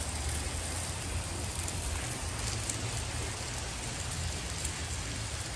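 Sliced steak and onions sizzling steadily on a hot flat-top griddle, over a low steady hum.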